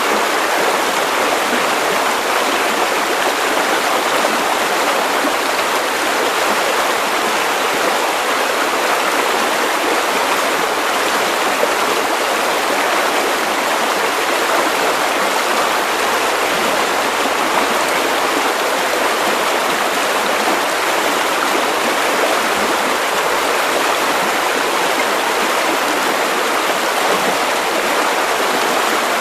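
Steady sleep-aid white noise: an even, unbroken hiss with little deep rumble, unchanging throughout.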